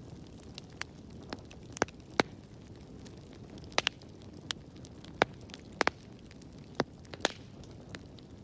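Wood fire burning in a fireplace, with a soft low rumble and irregular sharp crackles and pops, about a dozen in eight seconds.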